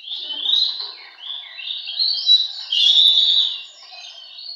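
Oriental magpie-robin (kacer) singing a loud, varied song of quick whistled phrases, fading near the end.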